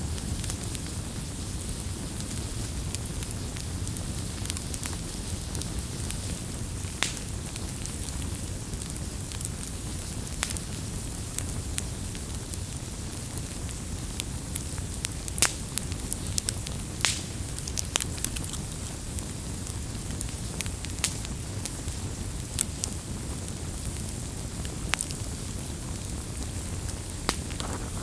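Wood campfire burning: a steady low rushing of the flames with irregular sharp crackles and pops, a cluster of louder pops about halfway through.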